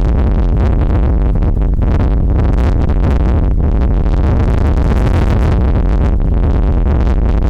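Strong gusty wind buffeting the microphone: a loud, steady, rumbling noise with no breaks.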